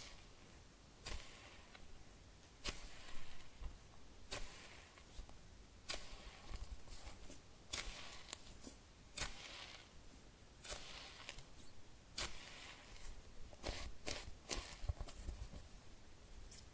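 Fingers squeezing and rubbing a soft foam food-shaped squishy toy: short crackly, rustling squeezes repeating about every one to two seconds.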